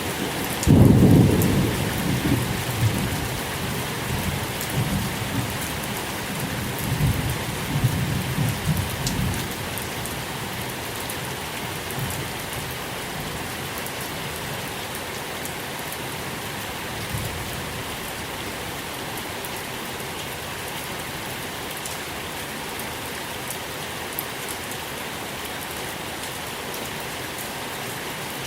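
Steady rain falling. A deep rumble breaks in about a second in and rolls on, swelling and fading, for about eight seconds before dying away under the rain.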